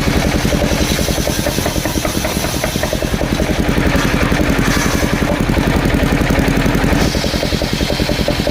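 Engine of a portable circular sawmill running steadily with a fast, even pulsing beat; the sound shifts slightly about seven seconds in.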